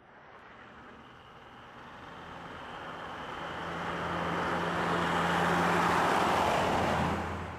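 Toyota Hilux pickup driving steadily closer: engine hum and tyre noise grow louder for about six seconds, then drop away sharply near the end.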